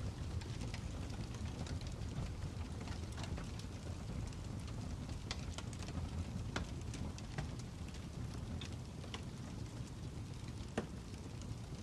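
Wood fire crackling: a steady low rumble with irregular sharp pops and snaps, one louder pop near the end.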